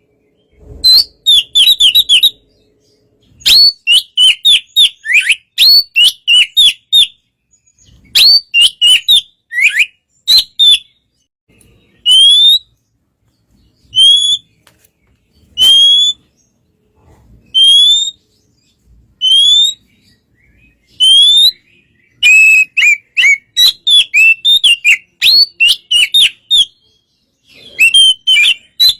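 Oriental magpie-robin (kacer) singing: phrases of quick whistled notes broken by short pauses, with a stretch in the middle of single rising whistles repeated about every second and a half.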